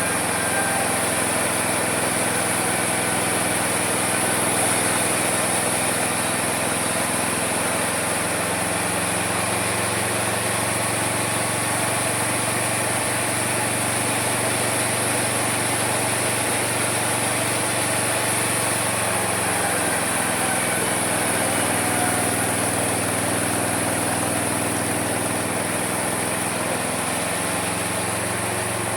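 Homemade mini sawmill running steadily, a small motor with a high hiss of the saw over it; the motor's pitch sags twice in the second half, then recovers.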